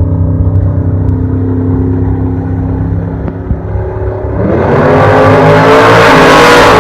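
Vehicle engine running steadily at a low pitch, then revving up hard about four seconds in, the pitch climbing and the sound becoming much louder, as under full acceleration.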